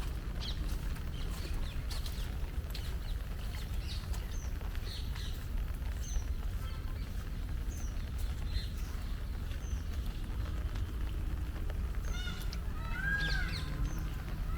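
Birds chirping briefly now and then over a steady low rumble, with a louder, harsh arched bird call repeated a few times near the end.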